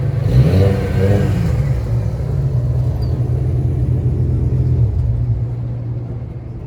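A car engine rumbling close by, with a brief rise and fall in revs in the first second or so, then running steadily and easing off a little after about five seconds.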